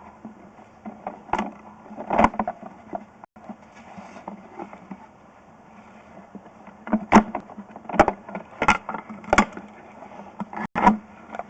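A series of sharp knocks and clunks over a low steady hum: two about a second and a half in, then a quicker run of about one every three-quarters of a second near the end.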